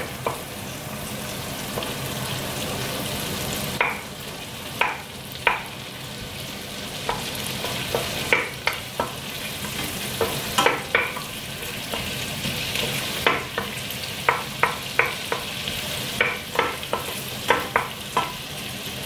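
Minced garlic sizzling in melted butter in a stainless steel pot, stirred with a wooden spatula that clacks and scrapes against the pot. The sizzle is steady, and the spatula knocks come in quick irregular clicks, many of them from about four seconds in.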